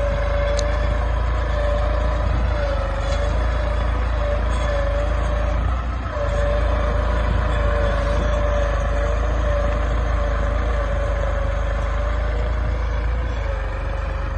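New Holland 3230 tractor's 42 HP diesel engine running hard: a steady heavy drone with a slightly wavering whine over it, dipping briefly about six seconds in.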